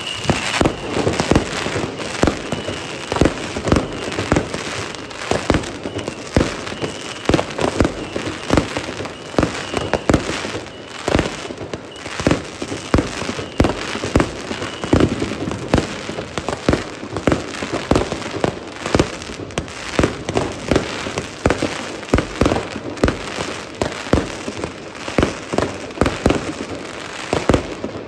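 Many consumer fireworks going off at once: a dense, irregular string of bangs, several a second, from rockets, firework batteries and firecrackers, with crackling between them.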